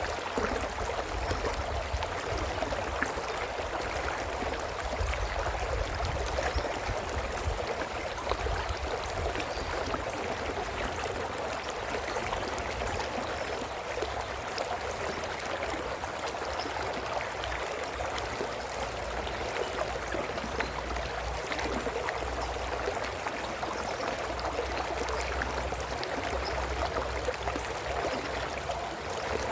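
A brook babbling and gurgling over stones, a steady rush of water with small splashes. A low, uneven rumble underneath.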